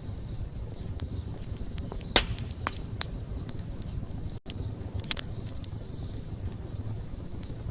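Wood campfire burning with a steady low rumble of flame and scattered sharp crackles and pops, the loudest about two seconds in. The sound cuts out for a split second about halfway through.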